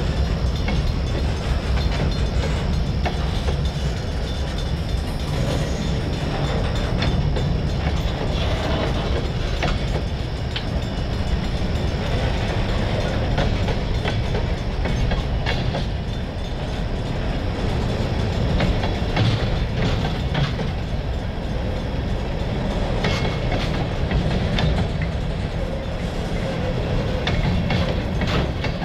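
Freight train rolling along: a steady low rumble of locomotives and cars, with wheels clicking over the rail joints now and then.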